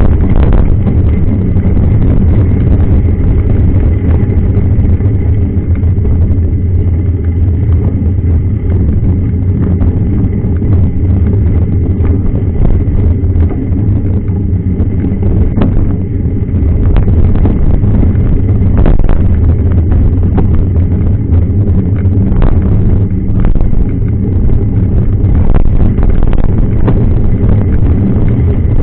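Steady low rumble with scattered clicks and knocks, as from a camera riding on a mountain bike over a rough trail: wind on the microphone, with the bike rattling over bumps.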